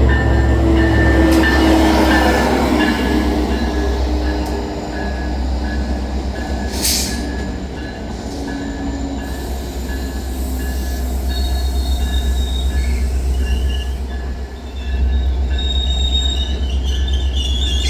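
Train running along the tracks with a heavy, steady low rumble, and high squealing from the wheels in the second half.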